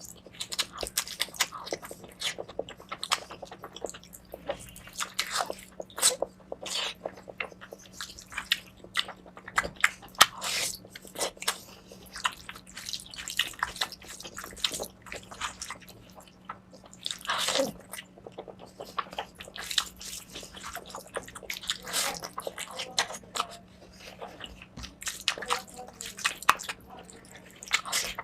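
Close-miked eating of mutton fat curry with rice: wet chewing, smacking and biting in quick, irregular clicks, with a faint steady hum underneath.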